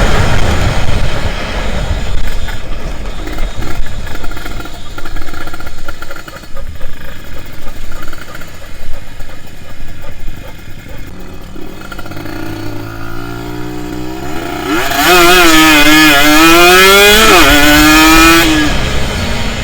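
Kawasaki Ninja 150 RR's two-stroke single-cylinder engine running. About twelve seconds in, its note climbs, then the revs swing up and down loudly for a few seconds before falling away near the end.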